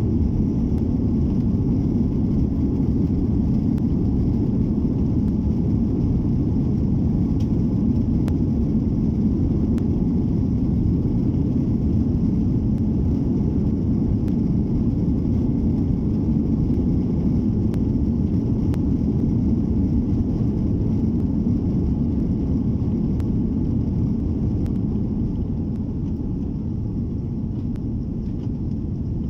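Steady low rumble of an Airbus A330-300's jet engines and airflow heard from inside the cabin, easing off slightly near the end.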